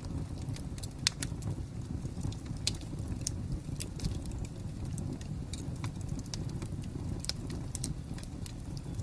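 Wood fire crackling: a steady low rumble of flames with irregular sharp pops and snaps, the loudest about a second in.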